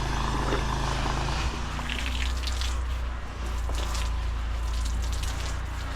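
An engine running steadily, with water splashing and dripping and a few short splashes over the top.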